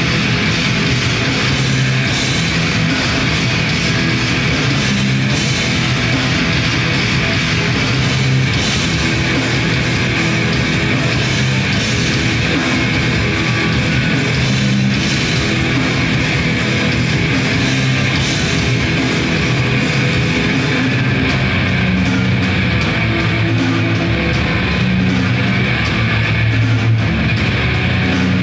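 Grindcore band playing live, loud and steady: distorted electric guitars with fast, dense drumming.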